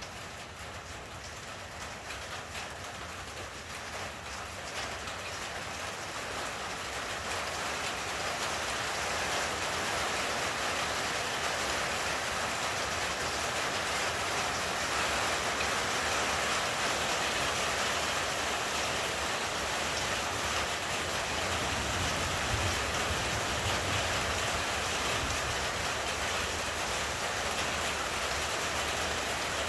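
Heavy rain falling in a thunderstorm, a steady hiss that grows louder over the first several seconds and then holds. There is a low rumble about three-quarters of the way through.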